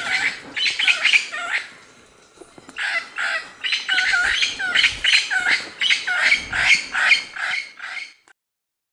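Birds calling in a rapid run of repeated calls, about two a second, with a short lull about two seconds in. The calls stop abruptly near the end.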